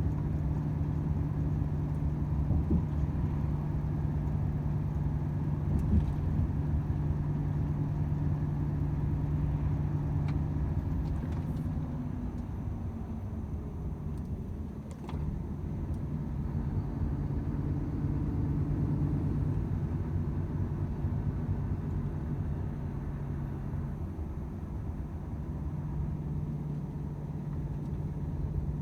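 Volvo FH 500 truck's 13-litre six-cylinder diesel running steadily at road speed, heard from inside the cab with road noise. Its note eases off about halfway through, with a brief dip in level, then settles back to a steady hum.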